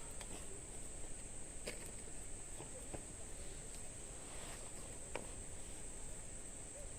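Wood campfire crackling, with a few scattered sharp pops over a few seconds. Under it is a steady, high-pitched trill of insects.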